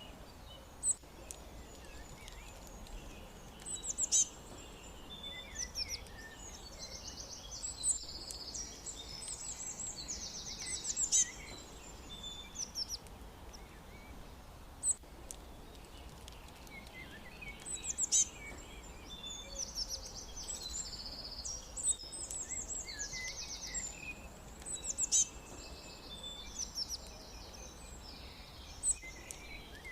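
Several wild birds chirping and singing, with clusters of quick high-pitched chirps and trills coming and going throughout, a few sharp louder notes among them. A faint steady low hum runs underneath.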